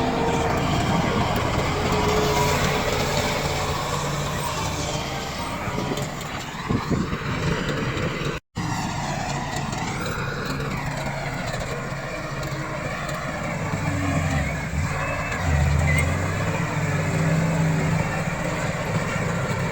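Komatsu D68 bulldozer's diesel engine running and working, its pitch rising and falling with load, with a few knocks of metal. The sound cuts out completely for a moment about eight and a half seconds in.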